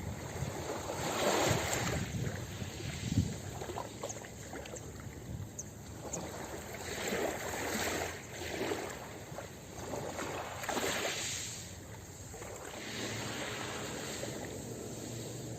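Ocean waves breaking and washing up a beach, surging and ebbing every few seconds, with light wind on the microphone.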